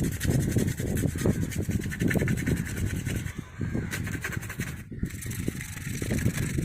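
Sandpaper rubbing back and forth over a plastic motorcycle helmet shell, a continuous scratchy scraping with handling knocks, as the old finish is sanded down before spray painting.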